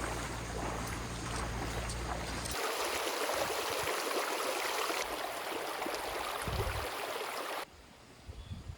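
Rushing water of a mountain valley stream, an even hiss. The sound changes abruptly about two and a half seconds in, where a low rumble stops, and drops sharply in level near the end.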